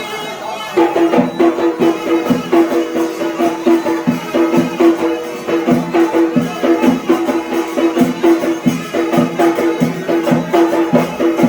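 Yemeni mizmar, a reed pipe, playing a traditional folk melody, joined about a second in by drumming in a quick steady beat.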